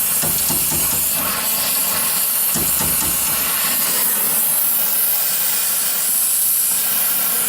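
Gas torch flame hissing steadily while it heats a brazed suction-line joint on a compressor to melt the braze and free the line.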